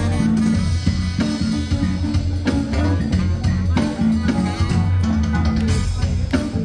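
Live band playing: electric guitar, bass guitar and drum kit with a steady beat.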